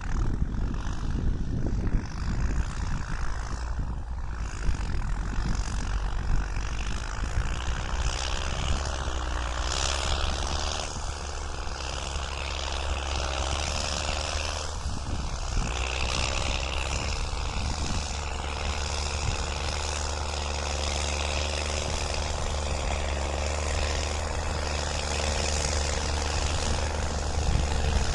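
New Holland TS6.125 tractor's diesel engine running steadily under load while pushing soil, its pitch dipping and rising a little around the middle, with a few short knocks in the first seconds.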